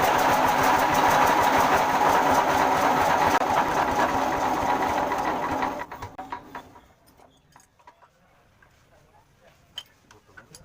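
Small stationary diesel engine running with a rapid, even clatter, then shut off about six seconds in, running down within a second; a few faint clicks follow. The uploader's complaint is that this engine runs too slowly and needs its fuel pump setting adjusted.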